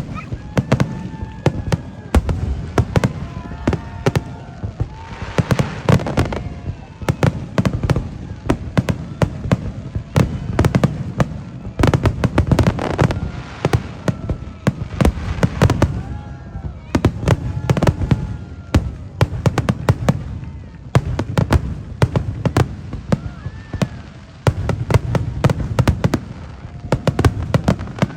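Aerial fireworks going off in quick succession: deep booms of shells bursting overhead mixed with dense crackling reports.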